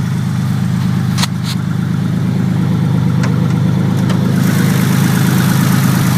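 Car engine idling steadily with its bearings freshly replaced, running smoothly. Two short clicks come about a second in, and a higher hiss rises over the idle about four seconds in.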